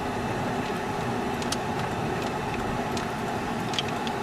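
Vehicle engine running steadily, heard from on board the moving bus, with a few short rattling clicks.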